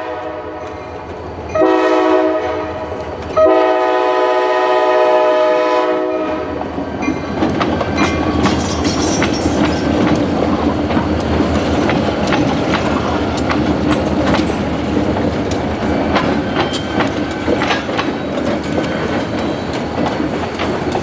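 Diesel locomotive horn sounding a short blast, then a long one, followed by a freight train rolling past at a grade crossing: a steady rumble with wheels clicking over the rail joints.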